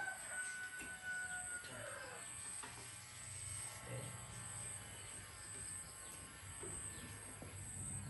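A rooster crowing, its long call held steady and then falling away about two seconds in. Afterwards only faint clicks and handling sounds over a low steady hum.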